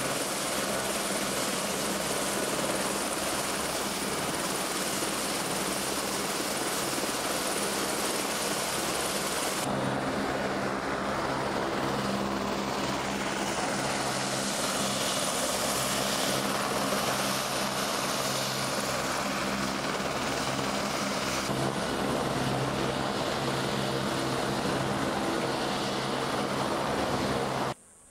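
Helicopter in flight: a steady, loud engine-and-rotor noise with a low hum throughout. It cuts off suddenly near the end.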